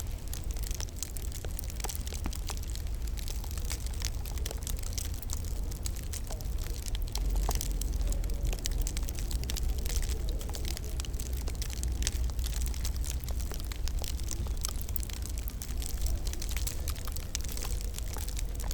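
Wood fire crackling, with many small irregular pops and snaps over a steady low rumble.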